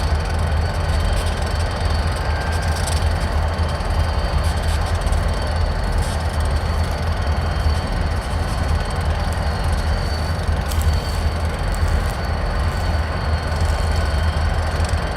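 Freight train rolling through a rail yard: a steady low rumble with a thin, high, steady squeal of wheels on the rails and a few light clicks.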